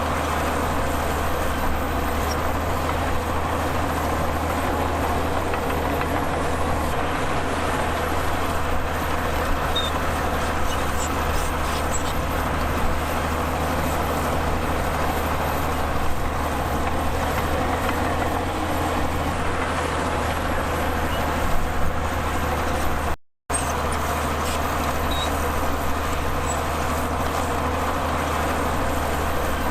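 Heavy diesel engine of earthmoving machinery running steadily with a constant low drone. The sound cuts out for a split second about three-quarters of the way through.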